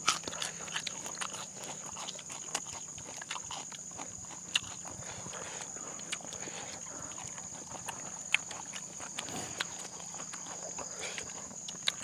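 Close-miked eating sounds: irregular wet chewing and lip-smacking clicks, with a few sharper snaps.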